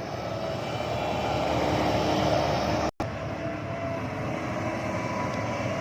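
Heavy diesel engine running steadily, swelling a little over the first two seconds, with a brief dropout to silence just before three seconds in.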